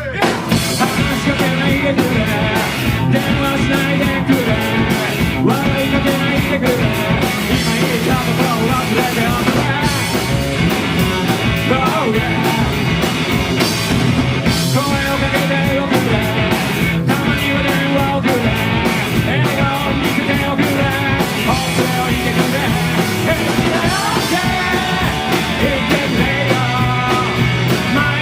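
Live rock band playing loud, driving garage punk: distorted electric guitars, bass and drums, with some vocals among them.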